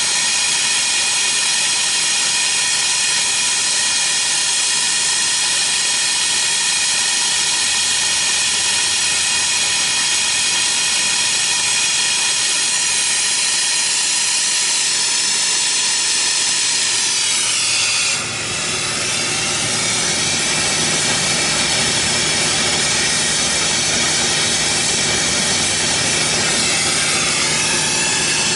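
Oxy-acetylene brazing torch flame hissing steadily while a copper refrigerant line joint is heated and brazed. About eighteen seconds in the tone shifts, fuller and lower, with a brief sweep as the flame moves.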